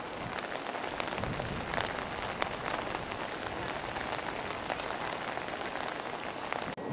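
Steady rain falling, with many individual drops hitting close by as irregular sharp taps.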